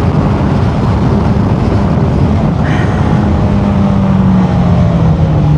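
Suzuki GSX-R1000 sport motorcycle's engine running under way with wind rush on the mic. The engine note falls steadily in pitch over the last couple of seconds as the revs drop.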